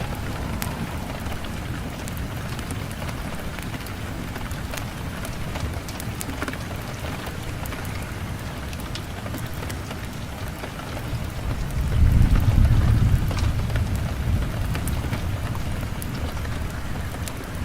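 Steady rainfall with scattered sharp drop ticks, and a low rumble of thunder that swells about twelve seconds in and fades over the next couple of seconds.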